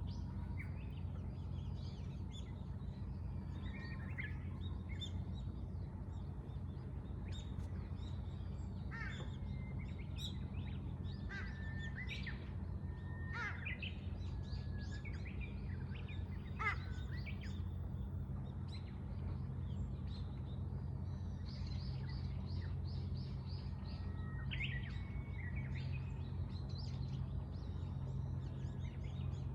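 Wild birds calling and chirping outdoors, many short scattered calls and twittering notes from several birds, over a steady low rumble.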